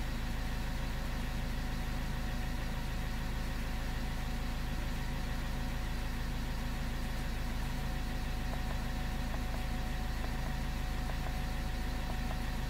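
Car engine idling steadily, a low even rumble. A few faint ticks come in the last few seconds.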